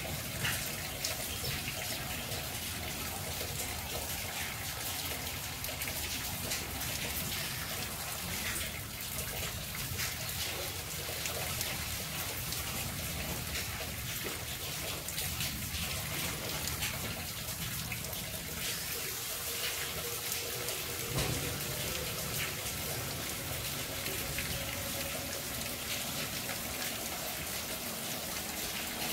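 Steady monsoon rain falling, an even hiss with scattered drops.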